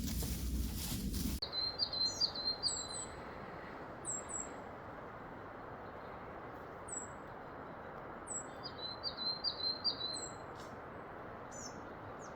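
Small birds calling, with quick runs of four or five short chirps and separate high notes that slide downward, repeated every second or two over a steady background hiss. A loud burst of noise stops abruptly about a second and a half in, before the calls begin.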